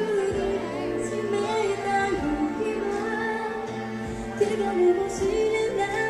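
Live performance of a soft pop ballad, female voices singing over a full band backing played through a festival sound system.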